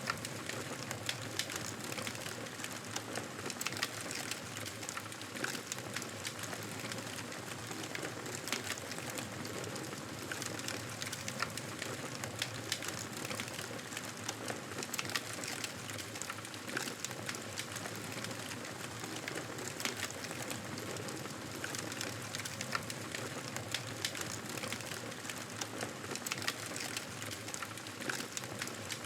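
Wood fire crackling in a fireplace: a steady soft hiss with frequent irregular pops and snaps.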